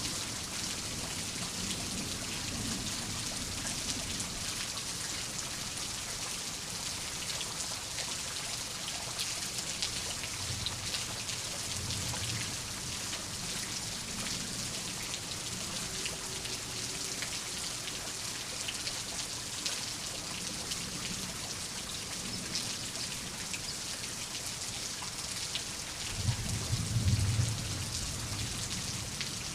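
Steady rain pattering, a dense hiss of falling drops with fine individual drop taps. A low rumble of thunder swells in near the end.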